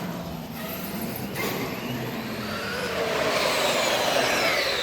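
Electric RC car driving past, its motor whine falling in pitch as it goes by, then again, louder, near the end.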